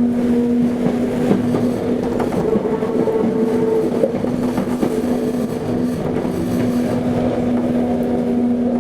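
Interior running sound of a Toei 5300 series electric train under way: wheel and rail noise with a steady hum from the traction equipment.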